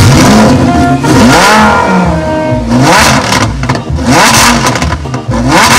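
Lamborghini Huracán Performante's V10 engine revving at the exhaust: a series of quick blips, each rising and falling in pitch, with a longer sweep early on followed by four or five shorter ones.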